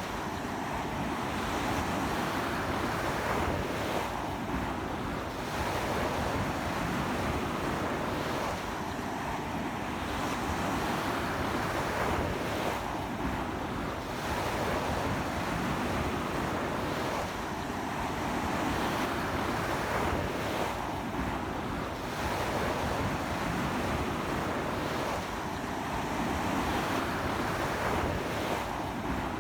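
Sea waves breaking and washing up on a beach in strong wind, in a continuous wash that swells and eases about every four seconds.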